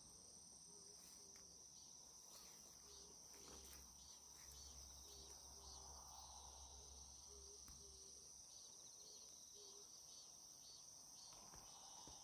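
Faint, steady, high-pitched insect chirring outdoors, with a faint low two-note call repeating several times underneath.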